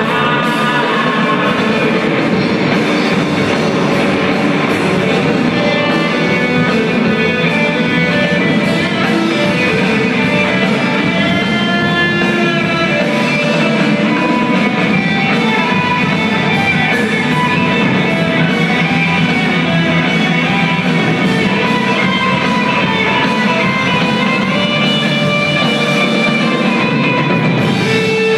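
Rock music with guitar, played loud and steady without a break.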